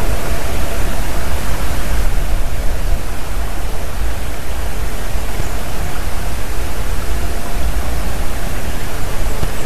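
Loud steady rushing noise filling the recording, with a faint, short call of a distant black woodpecker about three-quarters of the way in.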